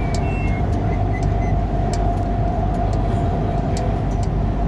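MRT train running between stations, heard inside the carriage: a steady rumble of wheels on track with a steady motor whine. A faint high-pitched whine fades out in the first second, and light clicks come through at scattered moments.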